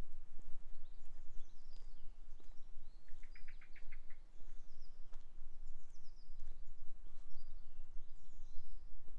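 Songbirds singing short, repeated chirping phrases about every second and a half, with a quick rattling trill about three seconds in, over a steady low rumble.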